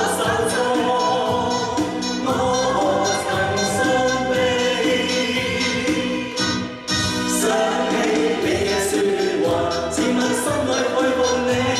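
A group of amateur singers singing in unison over a backing track with a steady beat, holding long notes; the music dips briefly about two-thirds of the way through.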